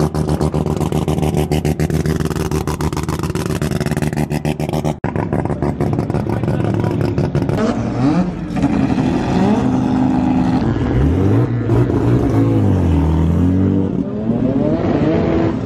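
Modified drag-race car engines running close by: a loud, choppy idle at first, then from about five seconds in, engines revving up and down several times.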